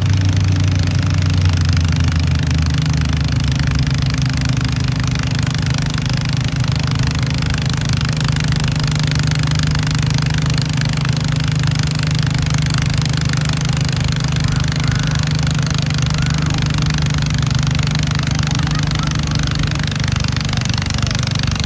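Tractor-pull tractor's engine running steadily at a constant pitch, with a deeper note that drops away about two seconds in.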